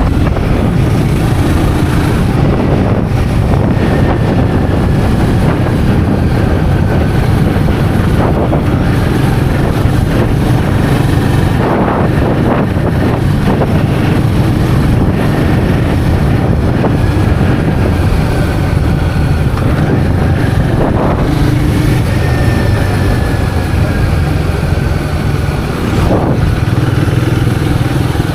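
Royal Enfield Guerrilla 450's single-cylinder engine running steadily while riding, with wind noise on the microphone.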